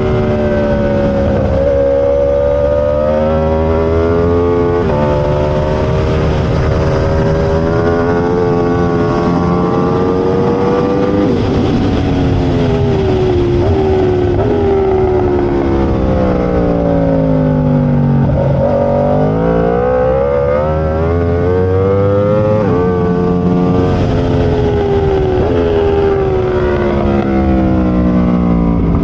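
Aprilia RSV4 superbike's V4 engine at race pace: it revs up through the gears with several quick upshifts, drops in pitch as it brakes and downshifts for a corner around the middle, then pulls hard through the gears again.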